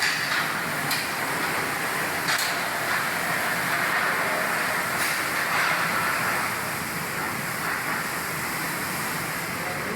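Plastic rope factory machinery running steadily: a dense, even mechanical whir and hiss with a few faint ticks.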